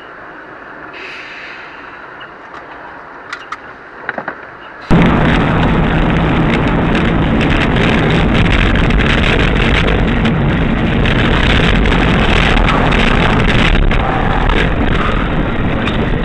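Steady vehicle noise with a few short clicks. About five seconds in it jumps abruptly to a much louder, rough, unbroken noise that keeps going.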